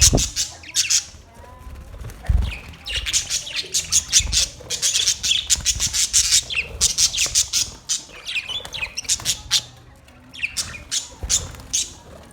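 Australian parrots squawking in rapid, high-pitched chattering runs, bursts of many quick calls with short pauses between.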